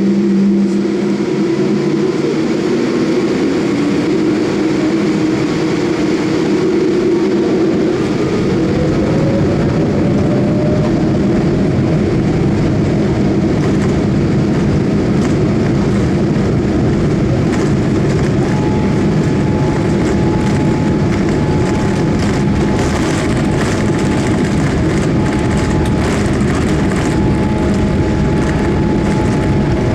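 Cabin noise of a Boeing 787 Dreamliner: steady jet-engine and airflow noise with a low rumble and humming tones. About a third of the way in a tone glides upward in pitch and the rumble grows, and a little past halfway a steady higher tone joins.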